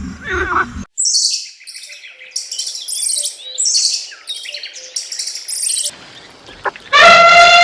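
Small songbird chirping: a run of short, high chirps in quick groups, following an abrupt cut. Near the end a loud, pitched animal call begins.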